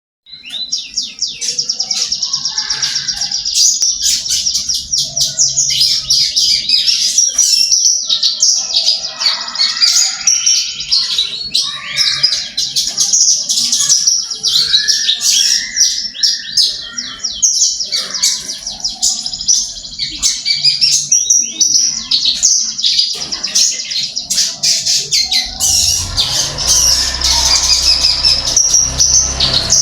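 Branjangan (Australasian bushlark) singing continuously in a fast, varied stream of chirps and trills, the 'gacor' nonstop song used as a tutor song for other birds. A low rumble joins near the end.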